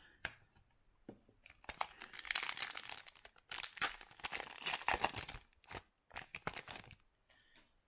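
Trading cards being handled and stacked by hand, with rustling and crinkling in two spells of quick scratchy sounds and a short pause between them.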